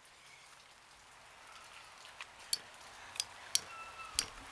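Rain falling steadily, with about half a dozen sharp drips striking a hard surface from about two seconds in.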